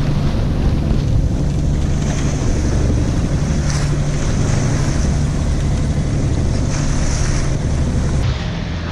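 Sailboat's inboard engine running at a steady drone while motor-sailing into a head wind, with waves washing past the hull and wind buffeting the microphone in gusts.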